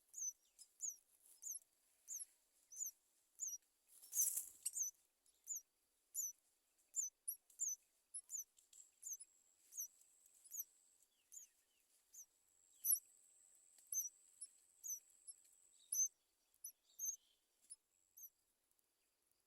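Small birds giving short, very high, thin chirps over and over, about two a second, with a brief rustle about four seconds in and a faint thin whine in the middle.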